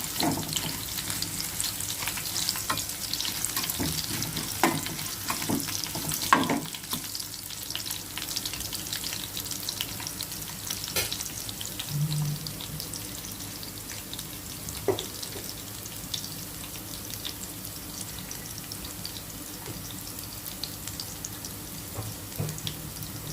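A tempering of mustard seeds, chana dal, urad dal and dried red chillies sizzling in hot oil in a pan, with a spoon stirring and knocking against the pan. The knocks are busier in the first several seconds, then a steadier sizzle continues.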